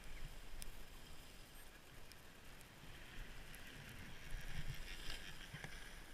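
Snow hissing under skis on a downhill run, growing louder a little past the middle, with wind rumbling on the microphone.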